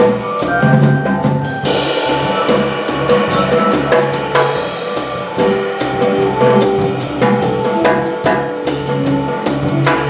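A jazz organ trio playing live: a drum kit busy with cymbals, snare and bass drum, under sustained organ notes and a walking bass line.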